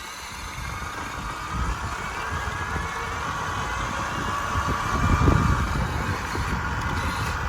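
Electric motor of a Stacyc electric balance bike whining as the child rides it, the whine rising slowly in pitch, over uneven low rumble that is loudest about five seconds in.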